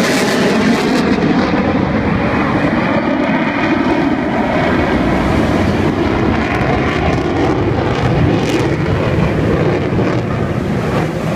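Loud, steady jet noise from an F-22 Raptor's twin turbofan engines in flight, holding level for the whole stretch.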